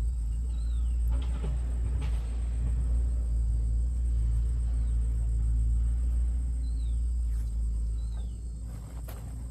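A steady low rumble with a bird's short, high, falling chirps repeating every few seconds.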